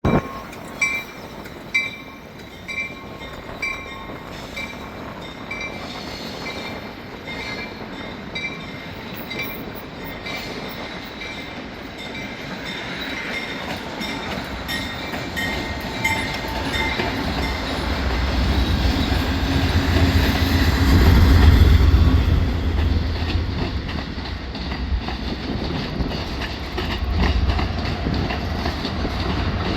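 Amtrak passenger train led by GE P42DC diesel locomotives approaching and passing: the rumble of engines and wheels builds to its loudest about two-thirds of the way through, then eases off, with the clickety-clack of the wheels on the rail joints. A ding repeats about once a second through the first half and fades out.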